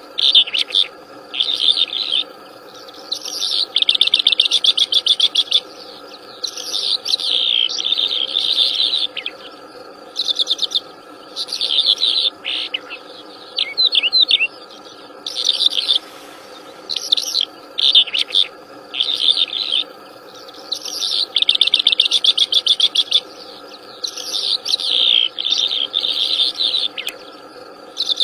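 Wild songbird singing vigorously in near-continuous high-pitched phrases of a second or two, many of them rapid trills, with short pauses between them. A faint steady drone runs underneath.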